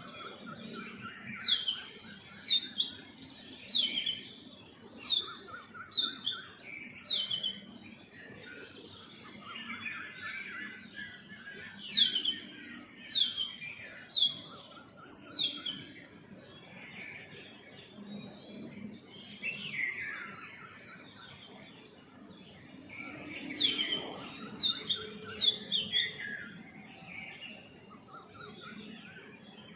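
Several songbirds chirping. In three bouts, one bird gives runs of quick, high notes, each falling in pitch and repeated in a series, over softer, lower chattering from other birds.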